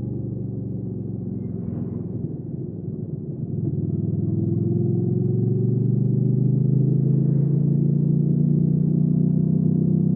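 Hyosung GV300S Aquila's 300 cc V-twin engine running while riding. It eases off briefly about two to three seconds in, then picks up and pulls on, louder and slowly rising in pitch.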